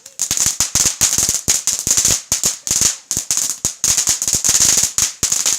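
Firework going off: a fast, irregular run of sharp cracks and pops over a steady high hiss.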